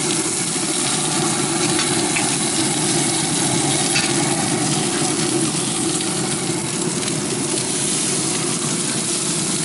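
Steady sizzling hiss of chicken cooking on a hot Traeger pellet smoker grill, even throughout with no distinct knocks or tones.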